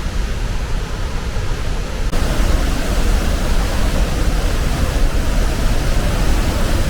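Tännforsen, a large waterfall, pouring: a steady, dense rush of falling water that gets louder about two seconds in.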